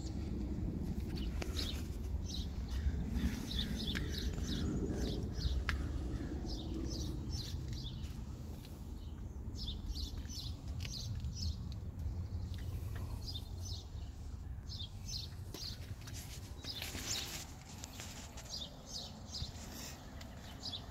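Small birds chirping: short high calls in quick clusters, repeating throughout, over a low steady outdoor rumble. There is a brief rush of noise about three-quarters of the way through.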